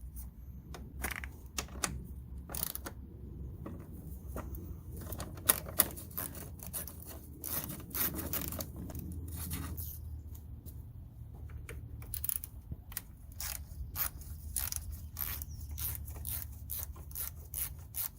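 Hand socket ratchet clicking in short runs as bolts on the car's radiator support are backed out, the clicks coming quicker and more evenly during the last several seconds.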